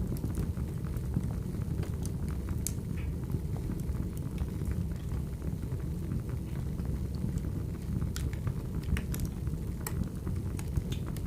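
Firewood burning: a steady low rumble of flames with scattered sharp crackles and pops from the logs.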